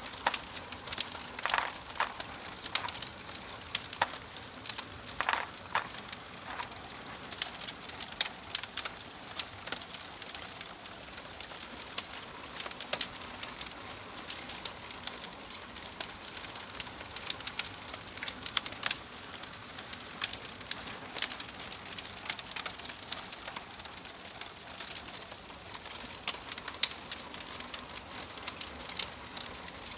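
Wood fire in a fireplace crackling, with sharp irregular pops and snaps over a steady soft hiss.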